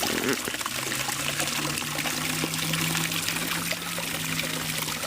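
Pumped water trickling and pouring back into a small backyard fish pond from the pool pump's return tube. A steady low hum comes in about a second in and holds.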